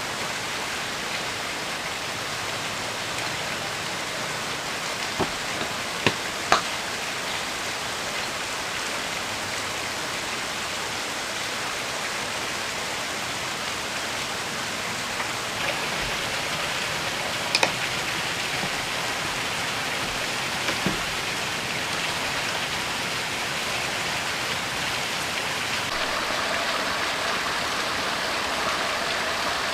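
Heavy rain falling, a steady even hiss, with a handful of sharp clicks or taps scattered through it and the rain growing slightly louder near the end.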